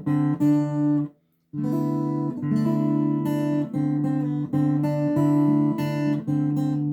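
Acoustic guitar picking the interlude note by note, a bass note with single higher strings over it. The playing stops briefly about a second in, then carries on in an even run of notes.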